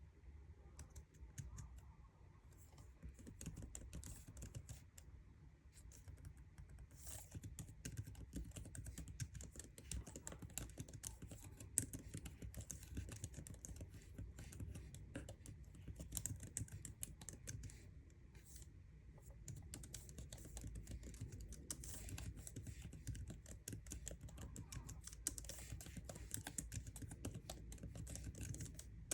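Typing on a MacBook's built-in keyboard: quiet, irregular key clicks in quick runs, with short pauses between bursts.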